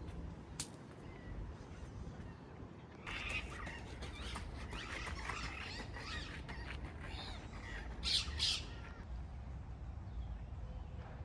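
Several birds chattering and calling together, starting about three seconds in, with two loud harsh squawks in quick succession later on.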